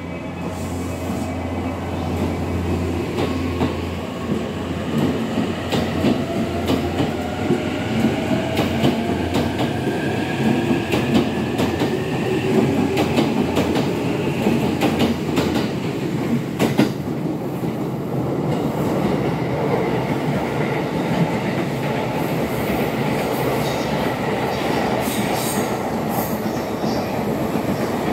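E259 series Narita Express electric train pulling out of the station. Its motor whine rises in pitch as it gathers speed over the first ten seconds or so, then gives way to a steady rumble with the wheels clacking over rail joints.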